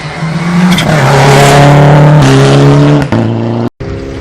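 Rally car passing close at speed, its engine loud and its note dropping in steps, with a brief gap where the sound cuts out near the end.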